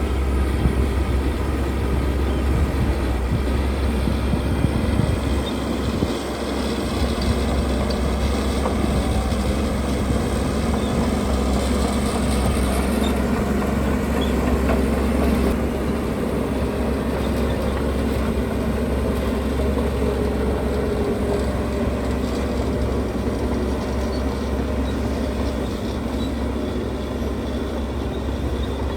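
Heavy earthmoving machinery at work: diesel engines running steadily with a strong low rumble.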